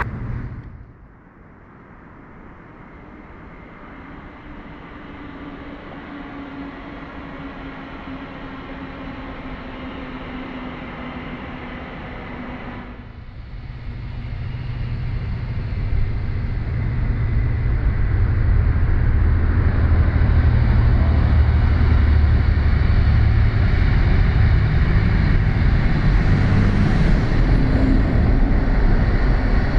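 A train running on the line, its rumble growing louder, then a loud, steady low rumble as it passes close by.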